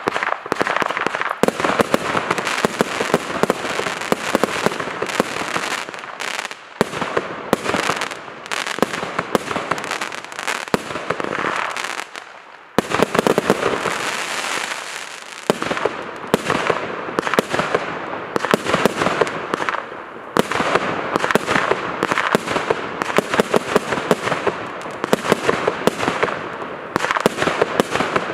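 Blue Dragon consumer firework going off: a dense, rapid stream of crackling pops and bangs, with a few brief lulls, the longest about halfway through.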